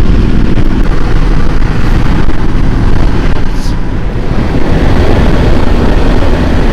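Kawasaki Ninja 500's parallel-twin engine running at road speed, mixed with heavy wind rumble on the rider's microphone.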